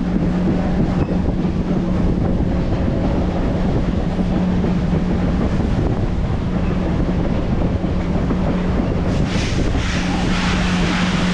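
An excursion train rolling along the track, heard from an open car: a steady low rumble with a constant hum and wind on the microphone. A stretch of louder hiss comes about nine seconds in.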